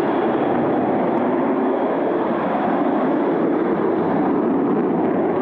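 Steady rushing noise of a Sukhoi Su-30MK fighter's twin turbofan jet engines as it flies low, heard through amateur camcorder footage.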